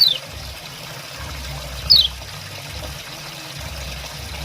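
Kecial kuning giving its 'ciak ciak' call: two sharp, falling chirps about two seconds apart, over a steady trickle of running water.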